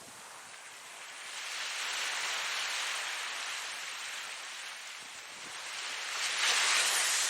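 Ocean waves washing in: a swell of surf noise that builds about a second in and slowly eases, then a louder wave near the end.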